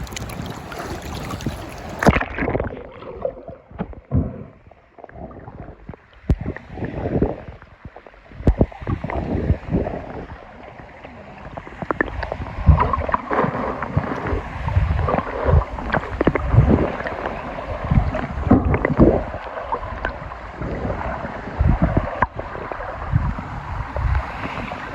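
Typhoon-driven lake waves sloshing and surging in irregular gushes, sounding muffled after about two seconds. Before that, wind buffets the microphone.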